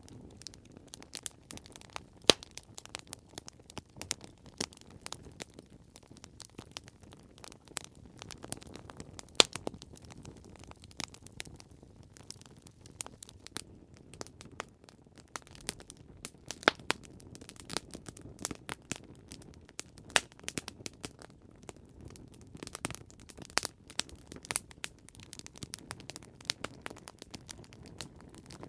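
Wood campfire crackling: irregular sharp pops and snaps over a low, steady rush of flames, with a few louder pops standing out.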